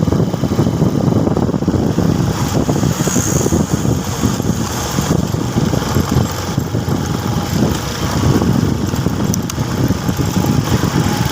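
Motorcycle engine running during a ride, a steady low rumble with no breaks.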